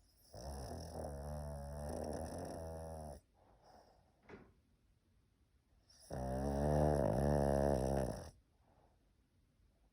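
Pug snoring in its sleep: two long snores of two to three seconds each, the second louder, with a quiet breath between them.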